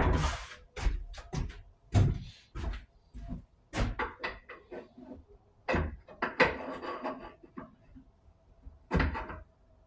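Irregular knocks, clicks and clattering of parts being handled and fitted onto a sliding miter saw during assembly, the loudest knock right at the start and others about two, four, six and nine seconds in.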